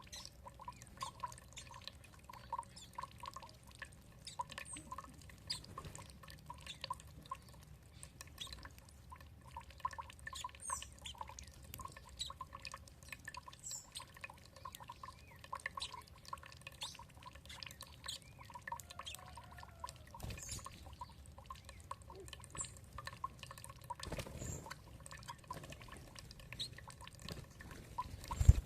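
Water dripping and trickling in a rapid, irregular patter of small drops, with occasional short high bird chirps. A single dull low thump sounds at the very end.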